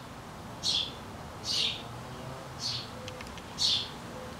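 A bird chirping: four short chirps, each falling in pitch, about one a second.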